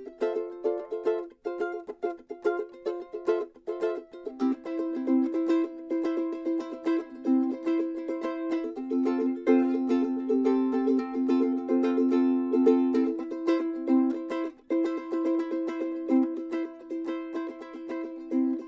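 Ukulele strummed steadily, a run of chords with quick, even strokes.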